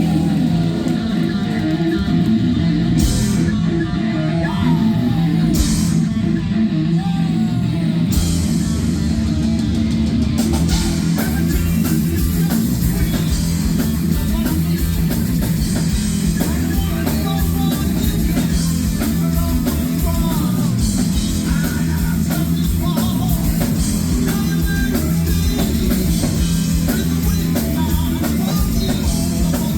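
Heavy metal band playing live: distorted electric guitar with bent notes over bass and drums, with a few cymbal crashes early on. About ten seconds in, the full band comes in hard with constant cymbals.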